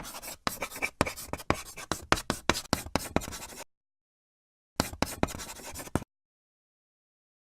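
Quick, scratchy strokes of a drawing tool across paper, in a long rapid run and then, after a pause of about a second, a shorter run.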